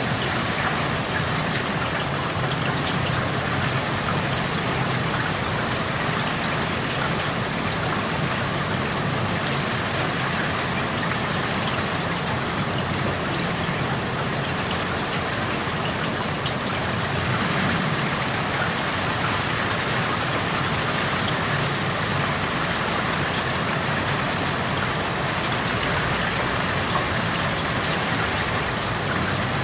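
Steady rain falling outside an open window, drops pattering on outdoor surfaces.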